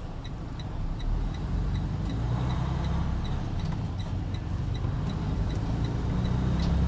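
Semi truck's diesel engine running low in the cab, growing a little louder about a second in. Over it the hazard-light flasher clicks steadily, about two and a half clicks a second.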